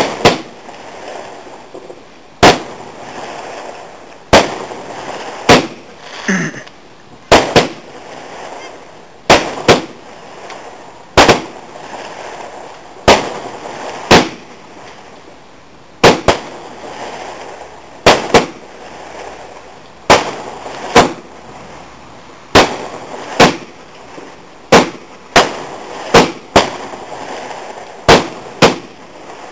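Garden fireworks going off: a string of sharp bangs, roughly one every second or two, each with a short echoing tail.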